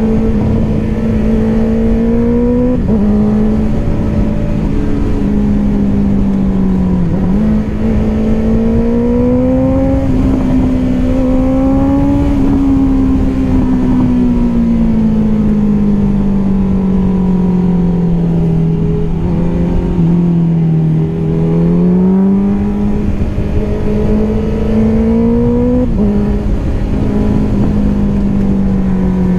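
Honda CBR650R's inline-four engine with an Akrapovič exhaust, running under way. Its pitch rises and falls slowly with speed and drops suddenly about three times at gear changes.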